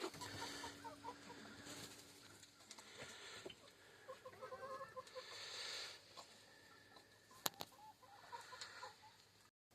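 Hens clucking softly: scattered runs of short, low clucks. There is one sharp click about two-thirds of the way through.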